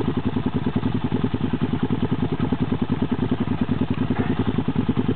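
Dirt bike engine running steadily at low revs, with a fast, even pulse.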